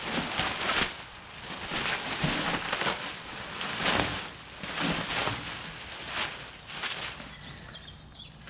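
Packaging crinkling and rustling in repeated bursts as a large sheet-metal panel is unwrapped.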